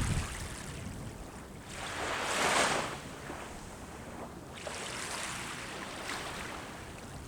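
Sea waves washing onto the shore. One wave swells and breaks about two and a half seconds in, and a softer wash follows in the second half.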